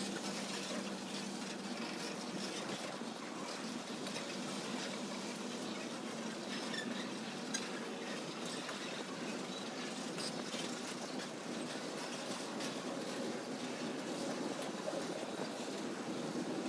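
Steady hiss of rain, with faint scattered ticks of drops.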